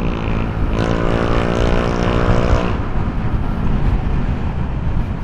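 Motor scooter engine running at a steady pitch under wind and road noise while riding. The engine note drops out about two and a half seconds in, leaving wind and road noise.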